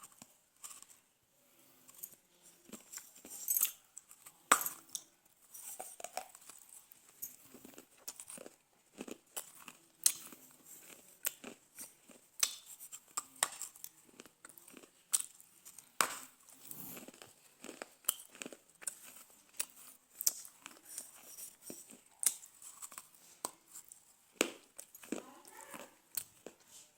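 Dry chikni mitti (smooth clay) being bitten and chewed close to the microphone: irregular sharp crunches, about one every second or so, with softer chewing between them.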